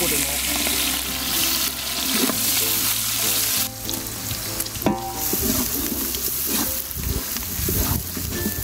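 Sliced onions, green chillies and curry leaves sizzling in hot oil in a large metal pot, stirred with a wooden spatula.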